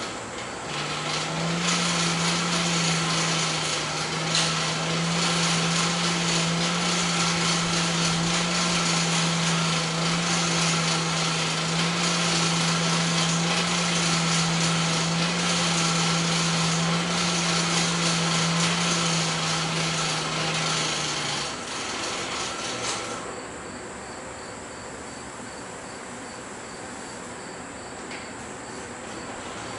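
An electric power tool runs for about twenty seconds: a steady motor hum under a loud hiss. Both cut off near the end, leaving a quieter steady background.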